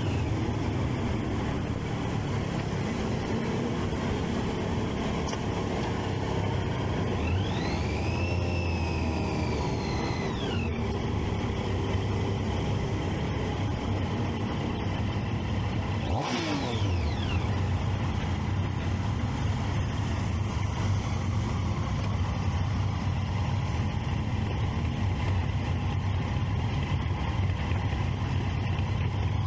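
Motorcycle engine, a Triumph Street Triple 675's inline three-cylinder, running steadily among other traffic. An engine note rises and falls about a quarter of the way in, and a sharp drop in pitch sweeps past about halfway through.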